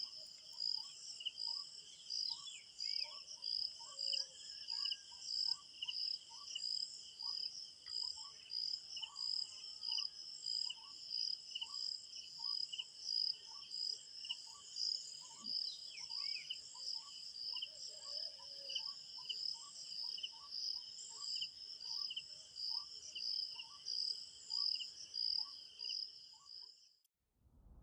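Crickets chirping in a steady, continuous chorus, with a short note repeating a little under twice a second and a few brief bird chirps. The sound cuts off abruptly shortly before the end.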